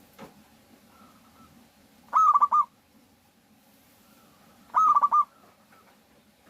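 Zebra dove cooing: two loud phrases about two and a half seconds apart, each a quick run of short rolling notes. Fainter coos sound in the background between them.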